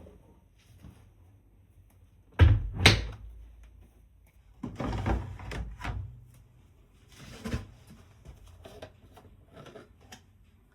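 A series of household knocks and handling clatters, the loudest being two sharp knocks about half a second apart roughly two and a half seconds in, followed by shorter rustling clatters.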